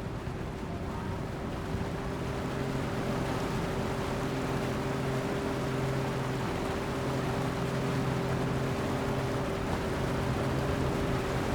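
A steady engine drone, a held tone over a lower hum, above an even wash of noise, growing slightly louder.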